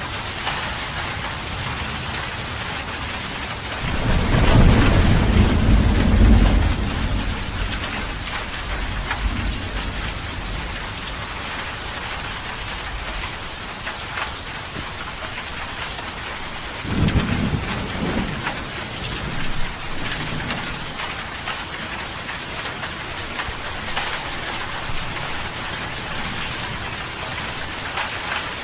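Steady rain falling, with thunder rolling in twice: a loud, deep rumble about four seconds in that lasts about three seconds, and a shorter one about seventeen seconds in.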